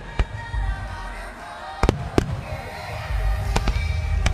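Star mine fireworks bursting overhead: a run of sharp bangs, a close pair near two seconds in, over a steady low rumble of shells. Music plays alongside the display.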